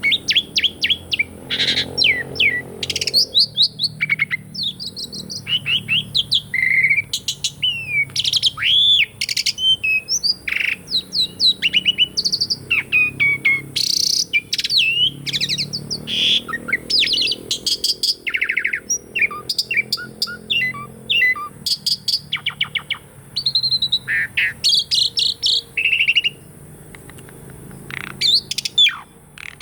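Pied starling (jalak suren) singing: a fast, varied stream of loud whistles, rising and falling sweeps, chirps and clicking rattles, with a short lull near the end.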